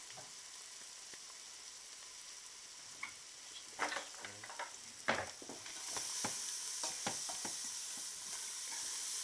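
Shallots with sugar frying in butter and olive oil in a pan, sizzling steadily, with a few utensil knocks and scrapes against the pan partway through. The sizzle grows louder about six seconds in.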